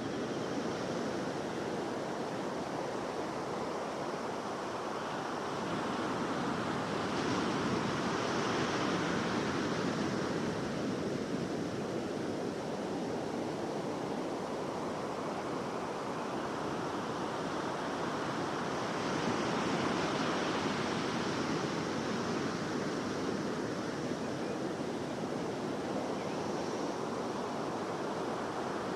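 Ocean surf washing ashore: a steady rush of water with slow swells as waves come in, twice louder for a few seconds.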